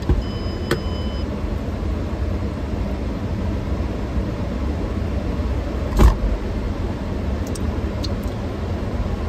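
Steady low rumble of a car idling, heard from inside the cabin, with a single sharp thump about six seconds in.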